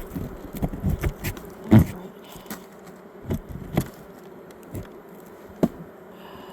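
Honeybees buzzing around an open hive in a steady hum, with a string of short knocks and scrapes, the loudest a little under two seconds in, from a knife working wax and comb off a wooden hive frame.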